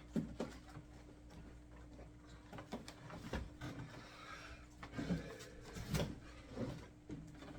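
Scattered light clicks and knocks of objects being handled, over a faint steady hum.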